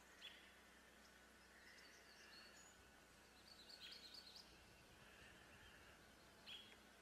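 Faint bird chirps over a quiet background hiss: one short call just after the start, a quick run of chirps around the middle, and another short call near the end.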